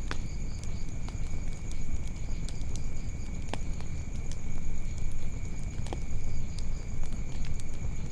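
Wood fire burning in a fireplace, crackling: scattered sharp pops and snaps, a few of them louder, over a low steady rumble of the flames.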